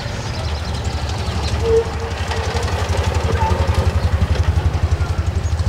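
Small engine of an open utility vehicle running at low speed as it drives slowly past, with a regular pulsing beat that grows louder about halfway in.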